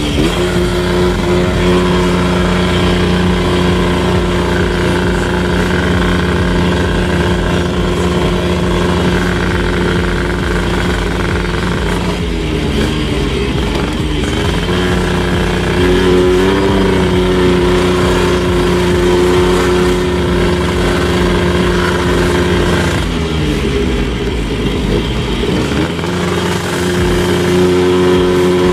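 Motorcycle engine running steadily under way. Its note drops and wavers twice, about twelve and about twenty-three seconds in, then comes back up to pitch as the rider gets back on the throttle.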